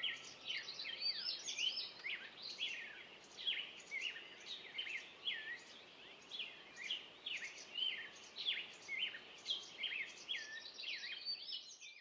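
A flock of songbirds calling: a continuous run of short, overlapping high chirps, several a second, over faint outdoor noise.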